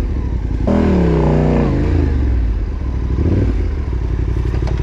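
Yamaha Ténéré 700's parallel-twin engine running, with a sudden burst of throttle about a second in whose revs fall back over the next second.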